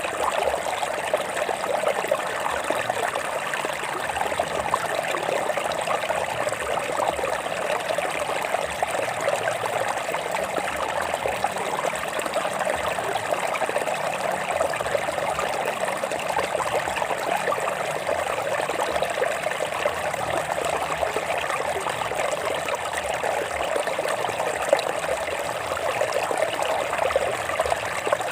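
Stream water flowing over rocks: a steady, unbroken rush and trickle of water.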